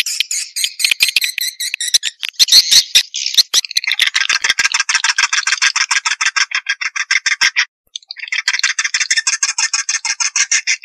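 Swiftlet twittering lure call: a fast, continuous run of rapid chirps, higher for the first few seconds, then a denser, lower chatter from about four seconds in, broken by a brief gap near eight seconds.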